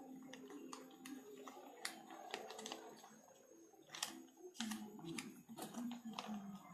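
Square sheet of paper being folded and handled for an origami figure: irregular crinkling, with scattered sharp clicks and taps as the paper is creased and pressed.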